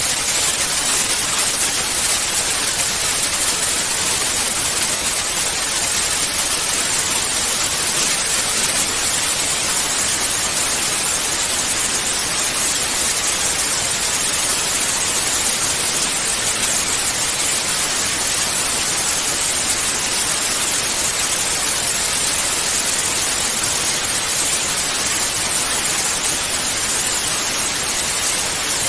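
Analogue TV static: a steady, even hiss of white noise, brightest in the high frequencies, with no change in level.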